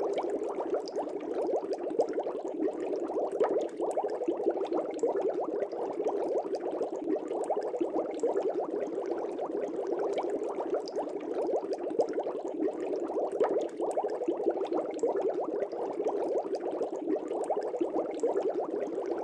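Water bubbling steadily in an aquarium fish tank: a continuous, dense stream of small bubbles gurgling and popping at the surface.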